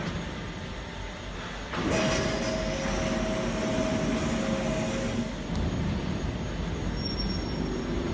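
Industrial machinery running with a steady mechanical rumble. About two seconds in it gets suddenly louder, and a thin steady whine holds for about three seconds before fading.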